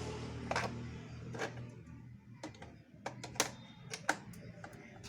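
A series of irregular sharp clicks and knocks, about eight in all, over a low steady hum that fades after about two seconds.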